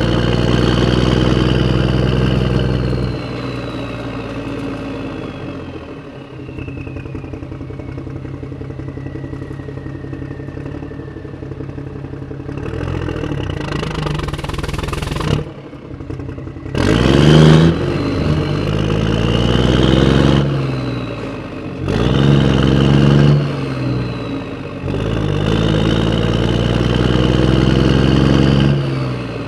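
Tractor engine running: a steady idle that drops in level a few seconds in, cuts out briefly about halfway, then revs up in several surges.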